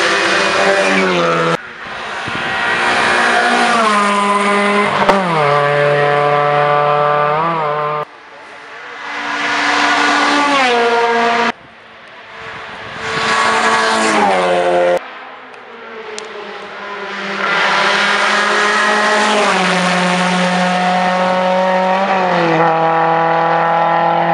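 Hillclimb race cars at full throttle, engines climbing in pitch through the gears with sharp drops at each upshift. Several separate passes follow one another, each ending in an abrupt cut.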